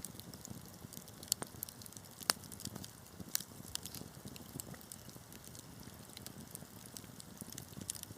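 Wood fire burning in a fireplace: a steady low hiss and flutter of flames with scattered sharp crackles and pops, the loudest about two seconds in.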